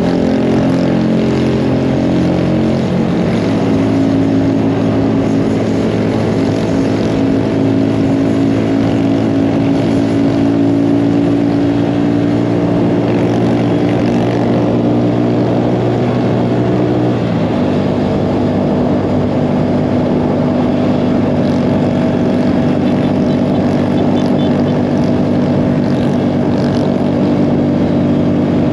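Mini bike engine running steadily while riding. Its pitch steps down about three seconds in and again about seventeen seconds in.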